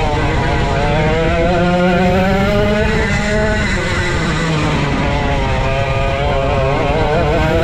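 Vintage go-kart's 135cc Sudam engine running hard at racing speed, its pitch climbing as it accelerates and then dropping as it lets off, about twice.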